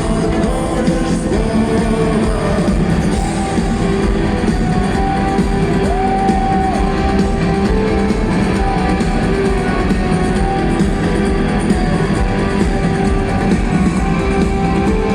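Rock music: a guitar band playing, with singing.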